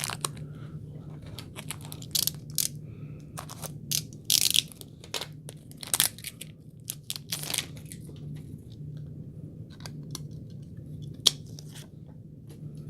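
A plastic card protector being handled as a trading card is slipped into it: scattered rustles, crinkles and light clicks, busiest in the first eight seconds, with one sharper click later, over a steady low hum.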